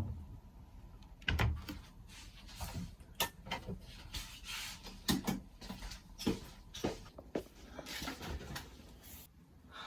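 Handling sounds in a small room: a string of small knocks and clicks, with rustling in between, as things are picked up, put down and opened or closed.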